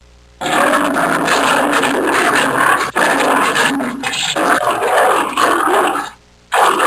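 A dog vocalizing for about six seconds without a break, then one short call near the end.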